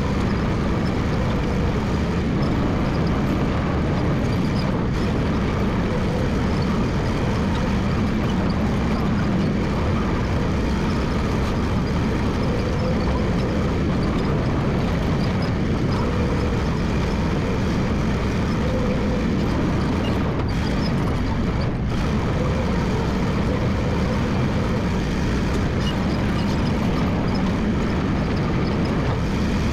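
Massey Ferguson MF 300 crawler dozer's diesel engine running steadily.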